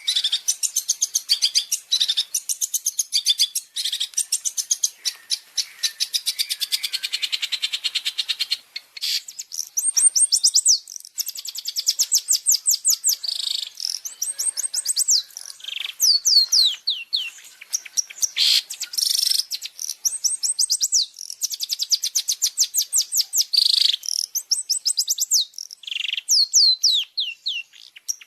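Long-tailed shrike (cendet) singing: a fast run of short high notes for the first nine seconds or so, then short phrases of quick upward-sweeping notes separated by brief pauses.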